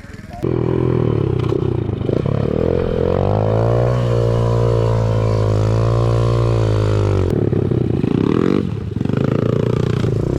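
Small single-cylinder pit bike engine revving up: the pitch climbs for a couple of seconds and is held high. About seven seconds in the throttle is let off and it drops back to a lower, uneven running note.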